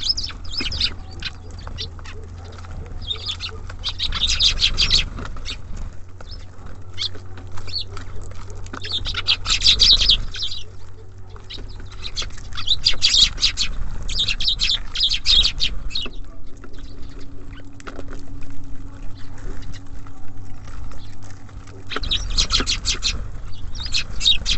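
Small songbirds at a feeder chirping and chattering in repeated dense bursts, with a low steady rumble underneath.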